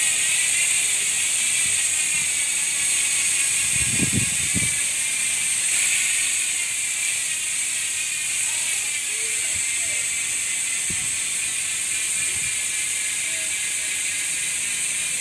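ARC MT-039 alloy mountain bike rear hub freewheeling, its freehub pawls clicking so fast they blur into a steady buzz that eases slightly as the wheel slows. A brief low thump comes about four seconds in.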